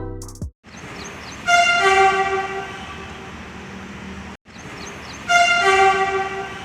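Metro train horn sounding over the steady rush of a moving train, twice: each blast sets in sharply, holds about half a second, then fades.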